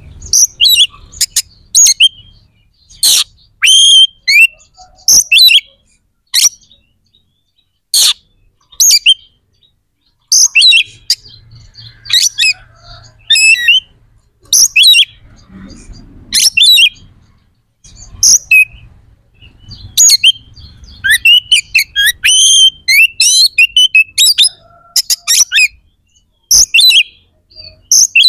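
Oriental magpie-robin (kacer) singing loud, varied phrases of sharp whistles and chirps. The phrases come in short bursts about a second apart, with brief pauses between them.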